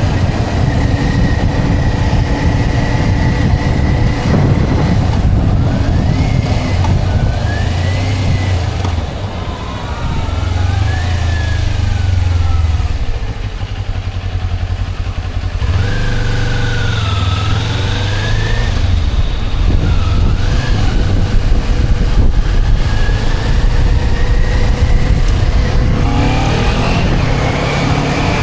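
Motorcycle engine heard from on the bike while riding, its pitch rising and falling several times as it speeds up and slows, over a steady low rumble.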